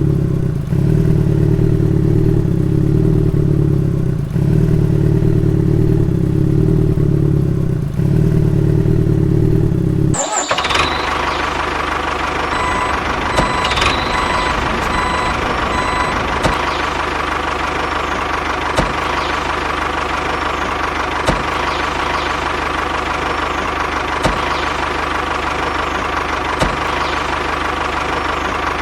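A tractor's engine running: a deep, pulsing sound that cuts off abruptly about ten seconds in, replaced by a different, brighter steady engine sound with a faint tick every couple of seconds.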